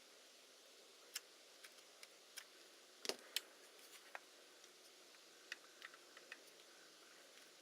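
Irregular small clicks and light taps of small parts and tools being handled while working on a Hasselblad Winder CW, over a faint hiss. The two sharpest clicks come close together about three seconds in.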